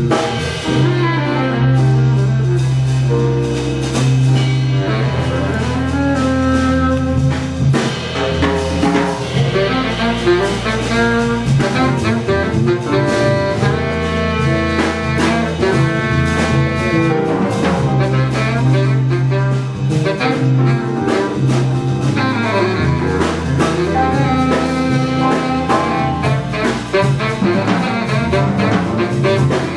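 A jazz big band playing a piece, with saxophones and brass carrying held chords and lines over walking double bass and drum kit.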